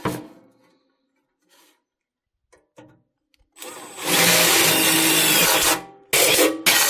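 Handheld power tool running under load for about two seconds, then pulsed in three short bursts near the end. Just before it there is a faint knock and a few small clicks of metal work.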